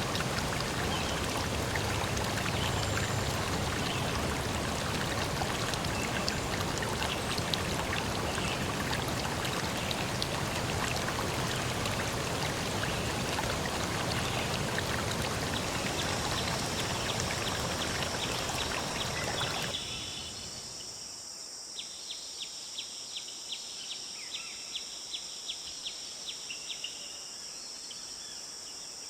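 A steady rush of flowing water. About two-thirds of the way through it stops abruptly and gives way to a quieter natural soundscape: a steady high-pitched hum with regular chirps, about two a second.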